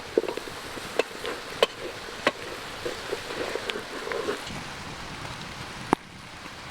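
Small wood campfire crackling, with a handful of sharp pops, over the steady rushing of a creek.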